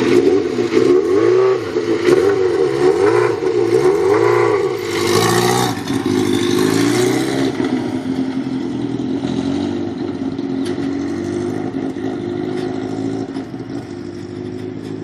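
Suzuki GSX-R1000 inline-four engine revving up and down several times in quick swells, with a brief rush of noise about five seconds in. Then it runs steadier and grows gradually fainter as the motorcycle pulls away.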